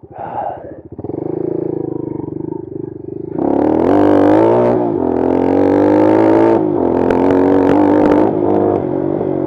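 Bashan Brozz 250 dual-sport motorcycle's single-cylinder four-stroke engine running at light throttle, then opened up sharply about three seconds in and revving hard, its pitch rising and falling as it accelerates.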